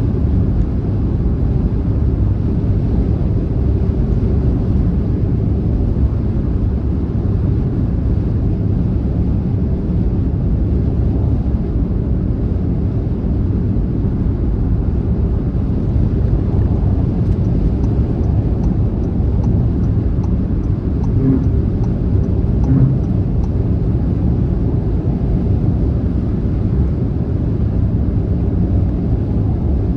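Steady low rumble of a car travelling at motorway speed, with a run of faint, evenly spaced ticks a little past halfway through.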